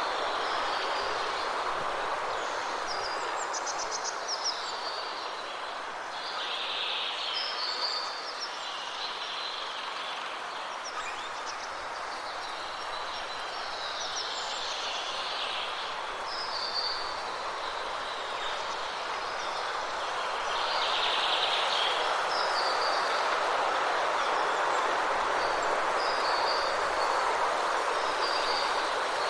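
Steady wind rushing, swelling somewhat louder about twenty seconds in, with birds calling briefly every couple of seconds above it.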